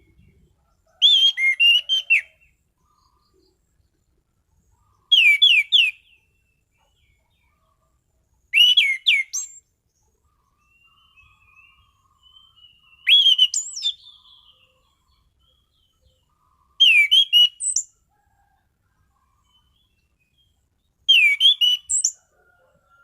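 Anis cendana (orange-banded thrush) singing: six loud, short phrases of quick downward-sweeping whistles, about one every four seconds, with soft twittering between phrases near the middle.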